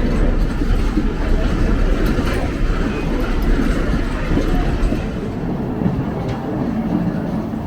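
Moving passenger train heard from an open-air car: a steady rumble and rattle of steel wheels rolling on the rails, with a few faint clicks. The deepest part of the rumble eases a little about five seconds in.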